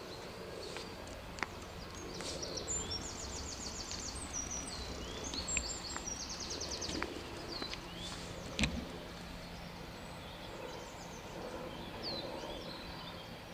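Outdoor ambience of small birds singing, with short high chirps and two rapid trills, over a steady low background rumble. A single sharp knock about two-thirds of the way through.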